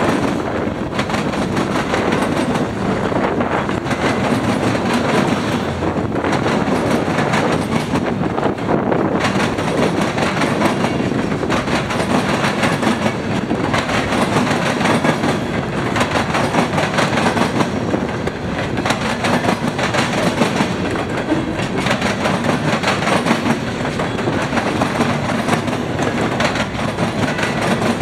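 Freight train cars rolling past steadily and loudly, their steel wheels clicking over the rail joints in a constant stream.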